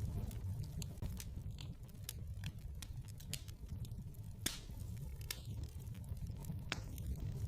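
Wood fire crackling in a fireplace: irregular snaps and pops, a couple of louder ones about halfway through, over a steady low rumble.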